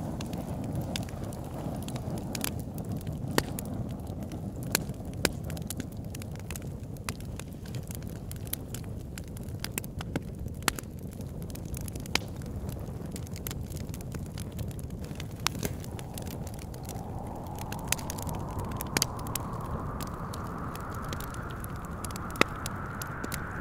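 Wood fire crackling with frequent sharp pops over a steady low rumble of wind. About two-thirds of the way through, a whistling wind gust comes in and rises slowly in pitch.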